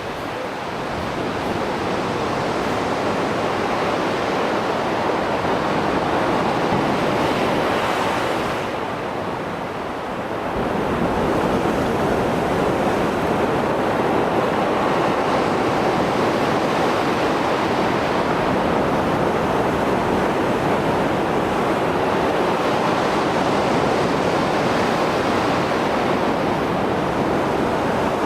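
Rough Mediterranean surf after a storm: waves breaking and washing ashore in a continuous rush, easing briefly about a third of the way in before building again.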